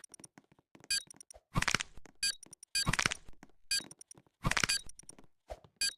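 A string of short, sharp cracks and clicks at uneven intervals, each one brief, with quiet gaps between them.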